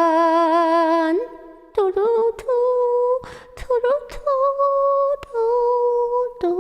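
A woman singing a cappella: she holds the word "on" with a wide vibrato, stops about a second in, then carries the tune in wordless hummed phrases, with quick breaths between them.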